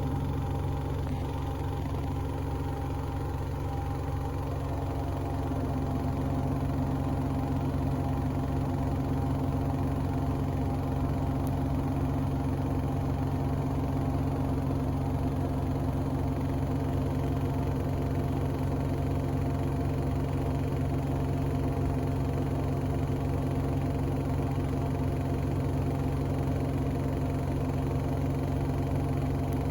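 Hoover Axi washing machine in its final high-speed spin: a steady drum and motor hum with several fixed tones, getting slightly louder about six seconds in.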